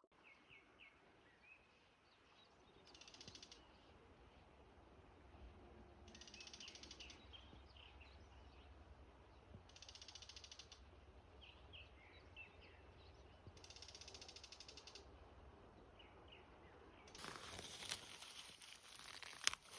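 Faint outdoor ambience: a bird's rapid, rattling trill repeats four times, about a second each, with short chirps in between. Rustling noise comes up near the end, with a sharp click just before it closes.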